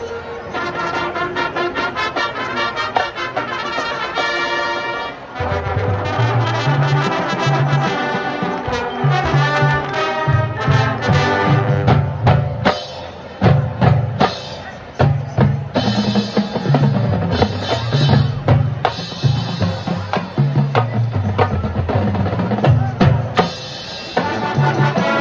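Marching band playing: brass section with trumpets and trombones over drums. About five seconds in, the low brass and drums come in strongly, with repeated hits after that.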